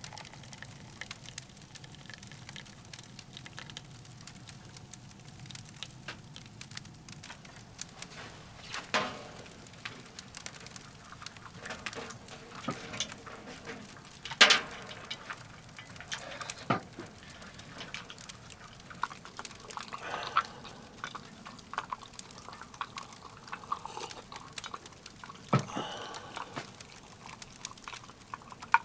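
Firewood crackling in a wood-burning tent stove: irregular small pops and ticks, with a few louder sharp cracks.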